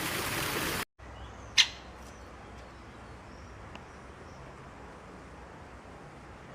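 A steady hiss cuts off about a second in. A small pet bird then gives a single short, sharp chirp, with a few faint ticks after it in a quiet room.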